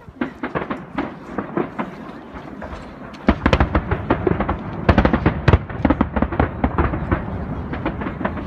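Aerial fireworks going off in quick succession, a scatter of bangs and crackles that grows much denser and louder about three seconds in, with a deep rumble under the bursts.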